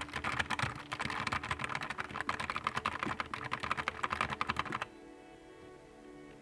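Fast typing on a Nuphy Air 75 V2 low-profile mechanical keyboard, a rapid stream of key clicks that stops about five seconds in.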